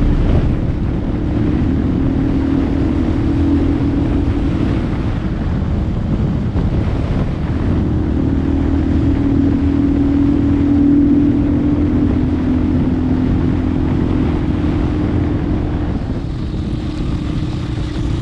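Motorcycle engine running at a fairly steady speed while riding, with wind rushing over the microphone.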